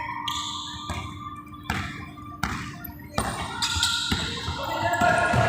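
A ball bouncing repeatedly on a hard floor in a large hall, one sharp thud about every three-quarters of a second.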